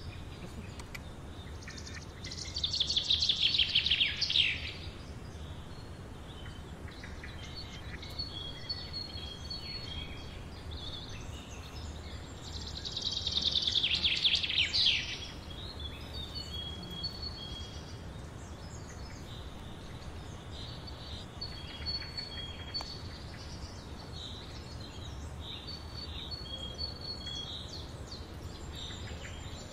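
Birds calling: two loud, fast trills that fall in pitch, about ten seconds apart, with short high chirps scattered between them, over a low steady background rumble.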